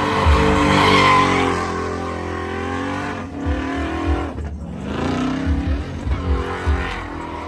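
Truck engine revving, its pitch dropping about three seconds in and then climbing again, over a rushing hiss that is strongest in the first couple of seconds.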